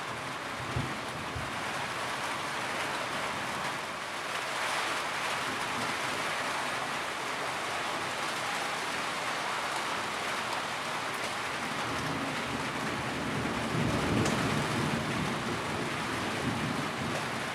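Steady rain with rolling thunder: an even hiss of rainfall throughout, and a low thunder rumble that builds about two-thirds of the way through and fades near the end.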